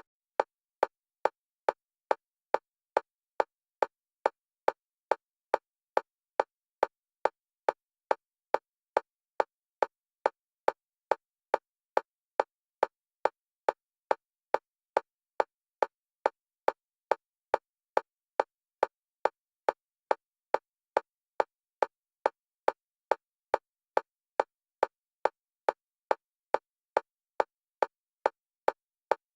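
Electronic metronome clicks of a single pitch, about two a second at an even level, alternating between the left and right stereo channels as EMDR bilateral stimulation.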